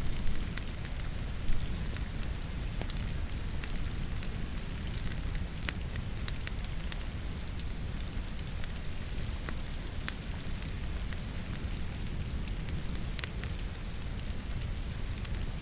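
Wood fire crackling in a fireplace, with frequent sharp pops and snaps over a steady rain hiss and a low rumble; a louder pop comes about a second and a half in.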